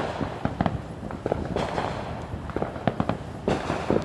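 Fireworks going off down the street: a rapid, irregular run of pops and crackles, with a few louder bangs at the start, about one and a half seconds in and near the end.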